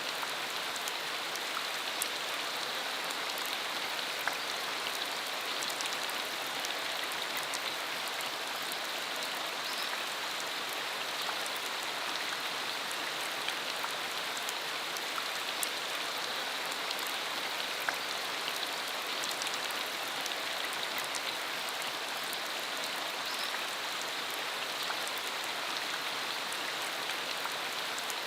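Steady rain shower falling: an even hiss with many individual drops ticking through it.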